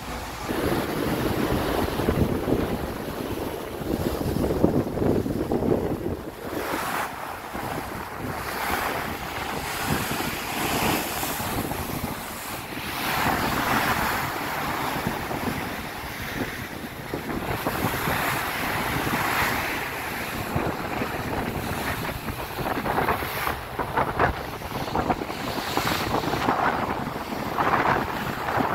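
Strong wind blowing across the microphone over the rush of sea waves breaking along a ship's hull, swelling and easing in gusts every few seconds.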